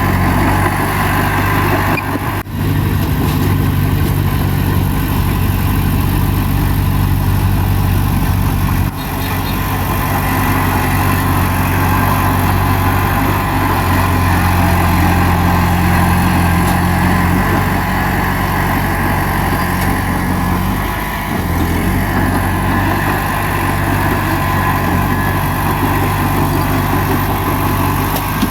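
Bulldozer's diesel engine running steadily, with two short breaks in the sound about two and a half and nine seconds in.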